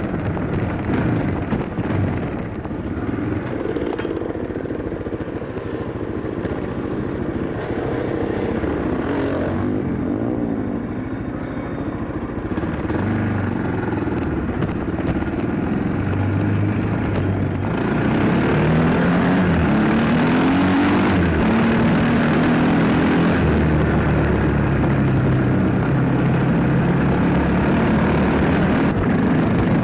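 Dirt bike engine running and revving up and down through the gears. About two-thirds of the way through it gets louder, with more rushing noise over it.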